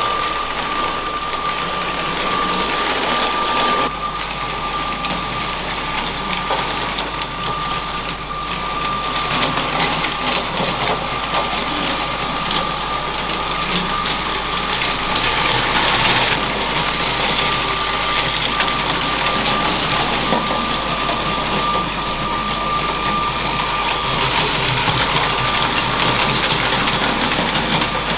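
LEGO train's small electric motor running with a steady high whine, over a continuous rolling clatter of wheels on plastic track.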